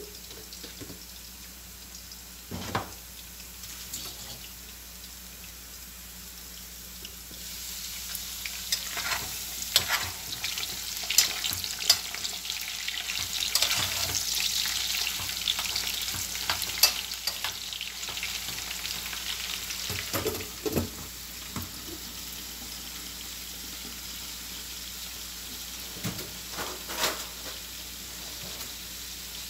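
Potatoes frying in pork lard, a steady sizzle that grows much louder from about seven seconds in and settles back after about eighteen seconds, while the pan's glass lid is off. A few short knocks of pots and utensils come through it.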